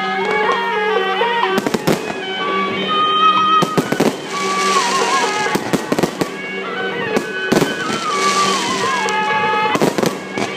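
Fireworks going off: scattered sharp bangs and hissing bursts, over music with a held drone and a wavering wind-instrument melody.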